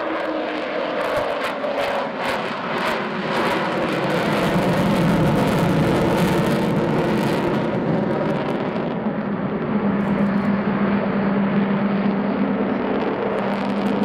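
Avro Vulcan's four Rolls-Royce Olympus turbojets running at high power as the delta-wing bomber climbs. The jet noise swells about four seconds in, and a steady low drone runs under it in the later half.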